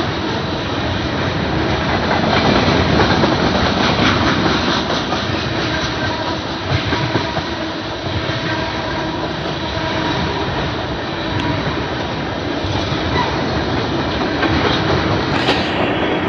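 BNSF freight train's tank cars and covered hoppers rolling past: loud, steady noise of steel wheels running on the rails.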